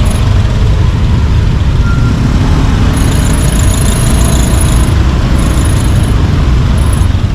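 Loud, steady rumble of wind and road noise on a moving motorcycle in traffic.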